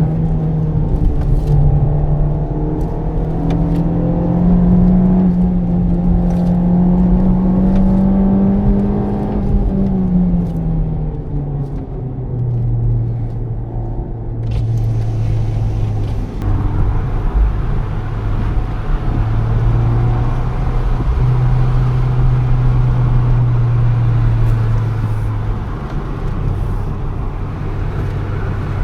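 Honda Civic Type R FK8's turbocharged 2.0-litre four-cylinder engine heard from inside the cabin under way. The revs climb slowly for about nine seconds, then ease off to a lower, steady drone with small rises and falls. Tyre and road noise grows louder about halfway through.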